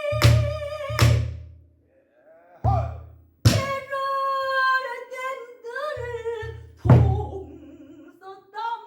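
Pansori singing: a female voice sustains long, wavering sung lines while a buk barrel drum is struck about seven times, with deep drum strokes and sharp wooden knocks.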